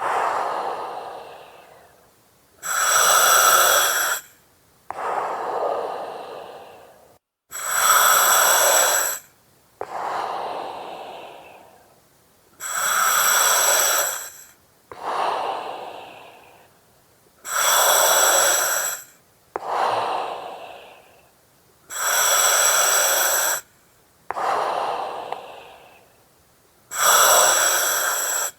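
A person breathing slowly and steadily through an oxygen mask, the mask's regulator hissing with each breath. Each breath is a loud hiss of about a second and a half followed by a softer one that fades away, repeating about every five seconds.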